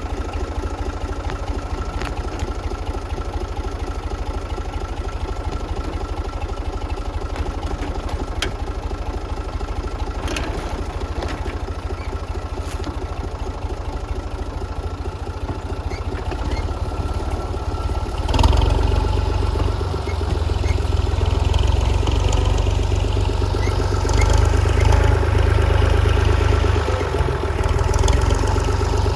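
Tractor engine running steadily at idle, then revving louder about two-thirds of the way through, with scattered small clicks and clanks.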